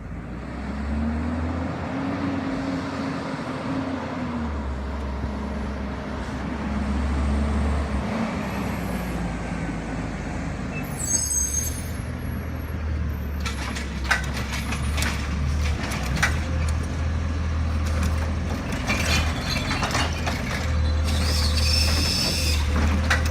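Garbage truck's diesel engine running steadily, its pitch rising and falling in the first few seconds, with a brief high squeal about eleven seconds in. From about halfway through, a series of metallic clanks and bangs sound over the engine.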